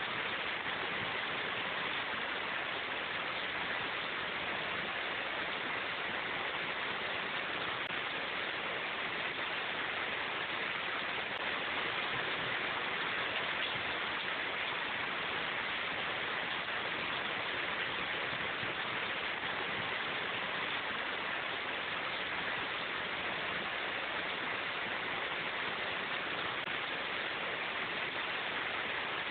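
Steady rain falling in a forest, an even hiss of drops with no single drop, drip or thunderclap standing out.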